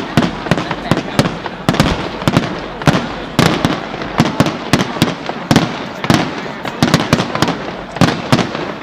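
Aerial fireworks display in full barrage: rapid, overlapping bangs, several a second, over a continuous crackling din.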